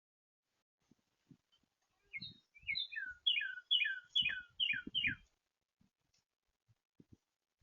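A songbird singing a phrase of about nine clear whistled notes, each sliding down in pitch, repeated about two or three times a second for some three seconds, with a few soft low knocks beneath.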